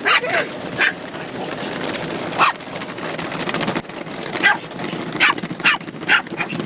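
A Pomeranian puppy barking and yipping in a string of about eight short, sharp barks, irregularly spaced, over a steady background noise.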